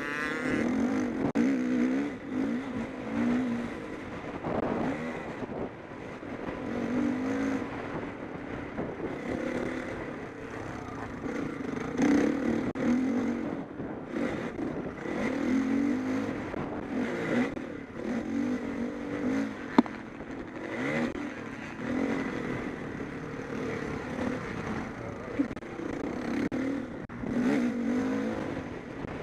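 MX1-class motocross bikes racing, their engines revving up and down again and again as the riders accelerate and back off. There are a couple of sharp knocks along the way.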